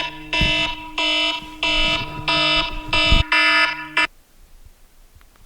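A wake-up alarm going off: a loud, repeating pattern of electronic beeps, about one every two-thirds of a second, that is switched off abruptly about four seconds in.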